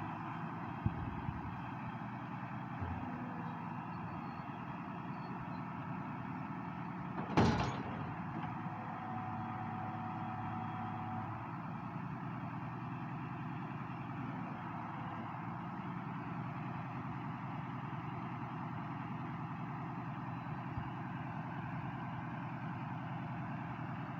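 International Harvester 886 tractor's diesel engine running steadily at work, pulling the round baler. There is a brief loud noise about seven seconds in.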